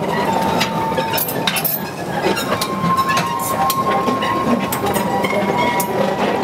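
Freight train running, with clattering and clinking from the wagons and a thin, steady whine through most of it.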